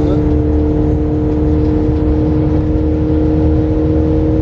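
Audi RS6's Akrapovič exhaust holding a steady drone at constant engine speed, its pitch neither rising nor falling.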